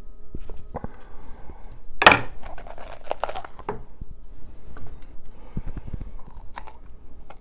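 Kitchen knife cutting and scraping produce on a cutting board, with irregular knocks and some crinkling; one louder knock about two seconds in.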